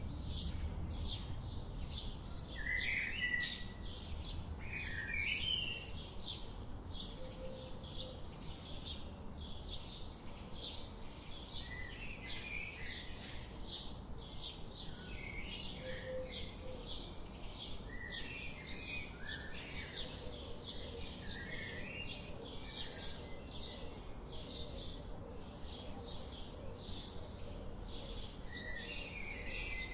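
Birds chirping: a steady run of short, high chirps, about two or three a second, with lower warbling calls now and then over a low background rumble.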